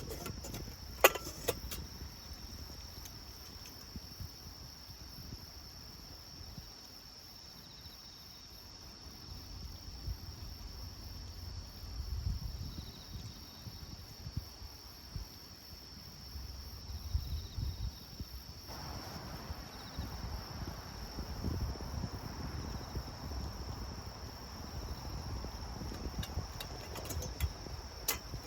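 Insects, crickets or the like, trilling steadily at a high pitch, over a low rumble that swells and fades. A sharp click comes about a second in, and a soft hiss joins about two-thirds of the way through.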